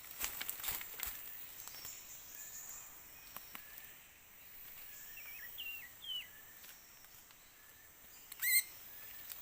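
Bird calls in forest ambience: a few short hooked whistled notes around the middle, then a single loud, harsh call about 8.5 seconds in. A few light clicks and rustles come in the first second.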